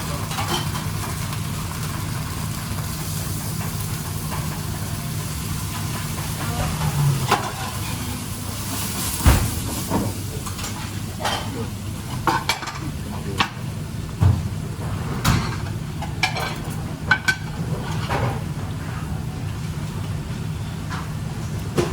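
Busy kitchen noise: a steady hum under an even hiss, with scattered knocks and clinks of pans and utensils starting about seven seconds in.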